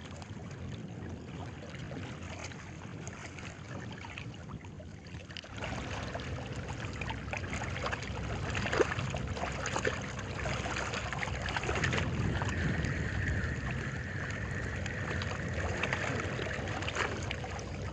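Outdoor water and wind noise at the shore, with scattered small knocks and clicks. About five seconds in a deeper rumble comes in, and later a faint steady high tone sits over it for a few seconds.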